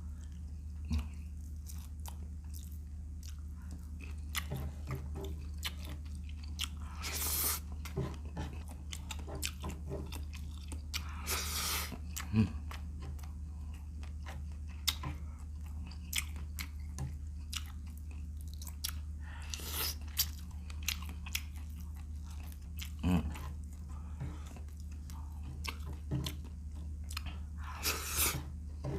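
Close-up chewing and biting of shrimp stewed in vinegar broth (paksiw na hipon), with wet crunching and many small clicks, and now and then a longer burst of wet noise. A steady low hum runs underneath.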